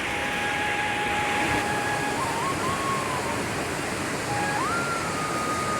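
Steady rushing of water. A thin, pure, whistle-like tone sits over it, stepping and gliding up in pitch and then holding a higher note near the end.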